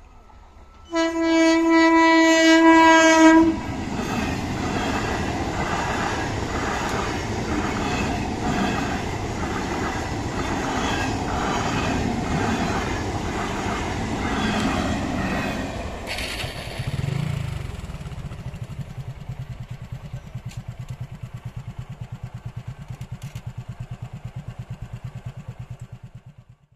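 Local electric multiple unit train sounding one long horn blast of about two and a half seconds, then its coaches rolling past at speed with a rhythmic clatter of wheels over rail joints. After about sixteen seconds the sound gives way to a low, rapid pulsing.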